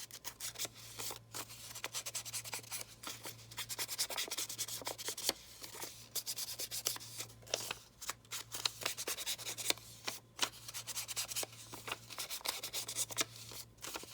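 Paper being handled and rubbed by hand on a journal page: a continuous run of dry rustles, scrapes and crinkles. A faint steady low hum runs underneath.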